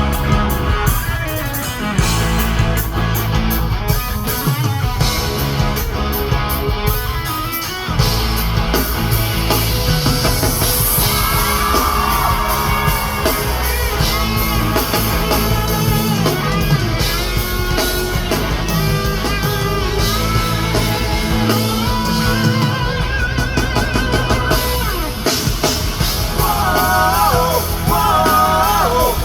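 Live rock band playing: electric guitar, bass and drum kit at full volume, with singing and yells over it that come through most clearly near the end.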